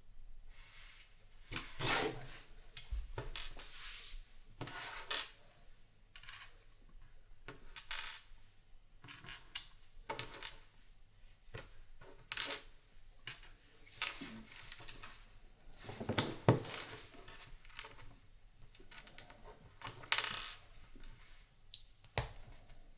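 Small plastic LEGO pieces being handled and snapped together: irregular clicks and short clattering rattles as bricks are picked out and pressed on, with the loudest clatter about two-thirds of the way through.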